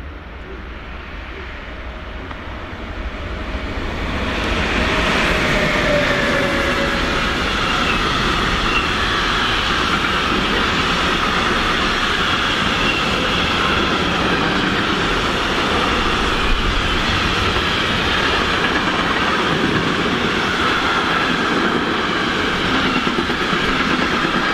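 Container freight train behind a Class 193 Vectron electric locomotive approaching and passing close by: the noise swells over the first four seconds or so, then holds steady as the wagons' wheels run over the rails with wavering high squeal tones.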